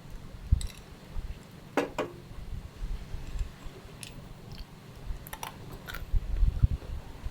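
Scattered clicks, taps and low knocks of things being handled, busiest near the end.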